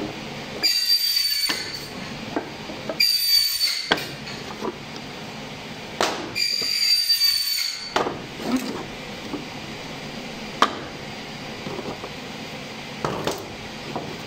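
Three scraping strokes of a hand tool across walnut wood, each with a thin high squeal, the last one longer; between and after them, a few sharp knocks of wood and tools being handled.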